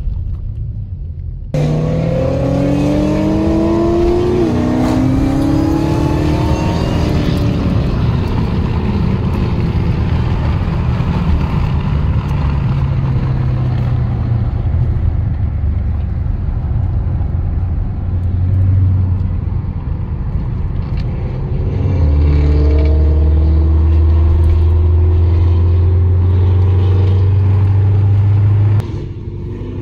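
Dodge Challenger SRT's V8 under hard acceleration, heard from inside the cabin: engine and exhaust pitch climbing through the gears with an upshift, then a heavy low drone at speed. The engine pulls hard again later on.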